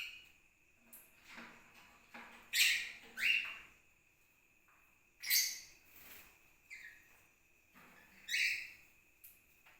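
Small pet parrots giving short, sharp calls, about five in all, each one falling in pitch.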